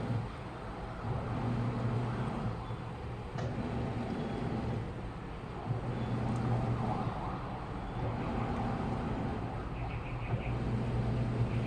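Washing machine running a wash cycle: its motor hums in bursts of one to two seconds with short pauses between, as the drum turns back and forth, over a steady churning noise.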